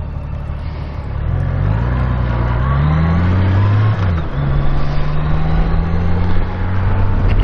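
Honda Gold Wing F6B's flat-six engine pulling up through the revs, with an upshift about four seconds in, after which it settles into a steady cruise, over wind and road noise.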